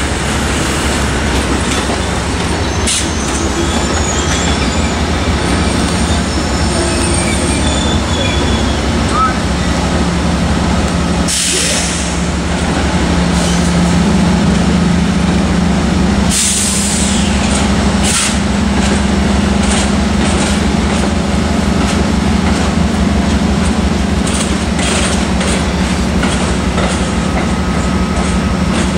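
Amtrak passenger train rolling through a station, a steady rumble of wheels on rail with a low hum. Twice near the middle, a brief sharp burst of hissing or wheel squeal rises over it.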